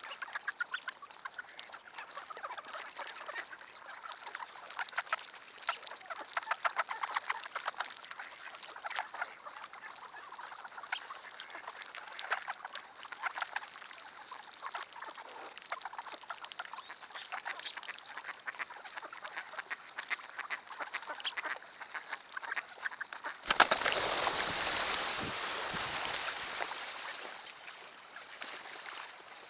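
A large flock of ducks in a flooded cornfield, quacking and calling almost without a break. About 23 seconds in, a sudden loud rush of noise starts and fades away over the next few seconds.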